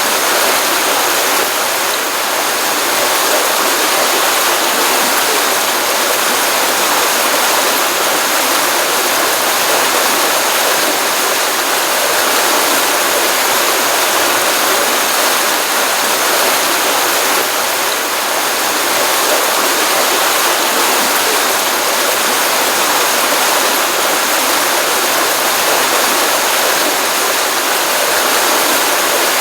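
Water running steadily in a small pond stream, a continuous even rush with no breaks.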